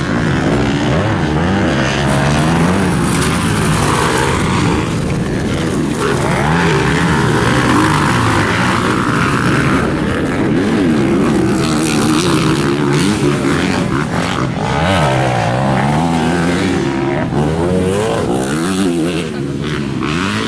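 Several motocross dirt bikes racing together, their engines revving up and down through the gears in overlapping rising and falling pitches.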